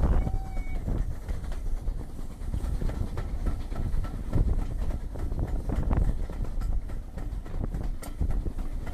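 Steam-hauled railway carriage on the move: a steady low rumble of the wheels on the track with irregular knocks and clicks.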